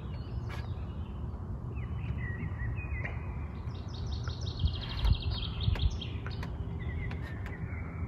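Songbirds calling and singing: scattered short chirps, then a fast trilling phrase about four seconds in, over a steady low rumble.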